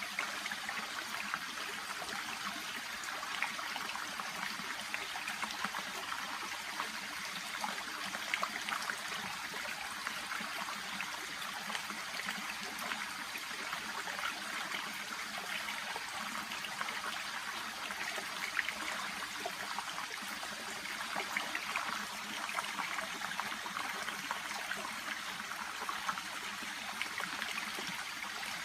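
Small shallow brook babbling steadily, a continuous trickle of running water.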